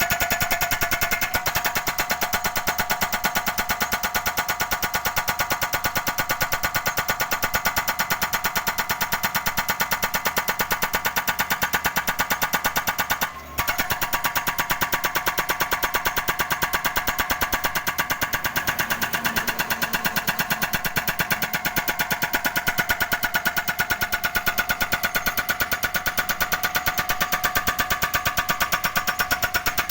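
Excavator-mounted hydraulic breaker hammering pavement in a rapid, even stream of blows, over the excavator's running engine, with a brief break about 13 seconds in.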